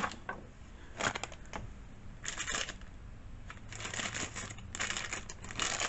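Hands working at a chainsaw carburetor to pull its fuel lines off: scattered clicks and several short bursts of scratchy rustling over a faint steady hum.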